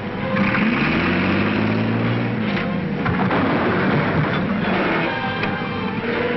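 Train running, with a low pitched sound rising during the first second and then a steady mechanical din.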